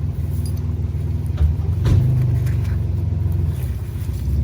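A vehicle's engine running with a steady low rumble. It gets a little louder about two seconds in, and there are a couple of faint knocks.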